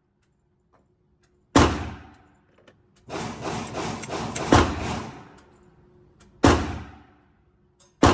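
Gunshots at an indoor shooting range, each sharp report followed by a short echo. Single shots come about two seconds apart, with a quicker, quieter string of shots in the middle.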